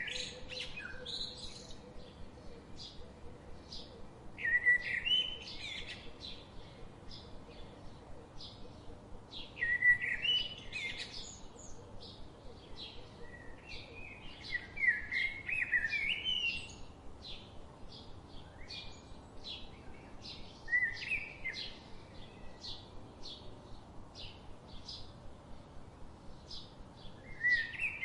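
Birds singing: a steady run of short, high chirps, about three a second, with louder song phrases of quick gliding notes every few seconds.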